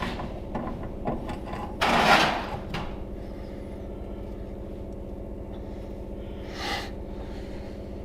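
An engine running steadily, with a harsh scraping noise at about two seconds in and a shorter, fainter one near seven seconds.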